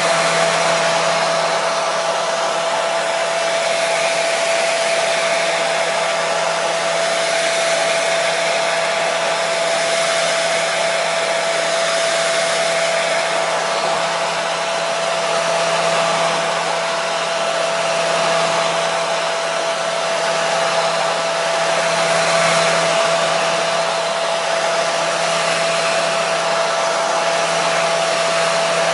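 Hair dryer running continuously: a steady rush of blown air with a constant motor hum and a steady whine, played as white noise to calm and lull a baby to sleep.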